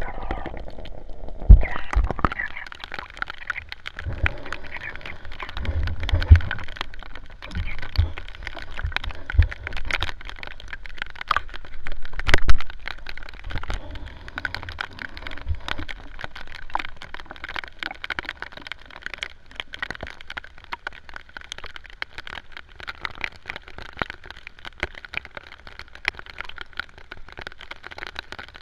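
Rain falling on the sea, a dense crackle of drops hitting the water, with low irregular thumps and splashes over the first half that then settle into the steady patter.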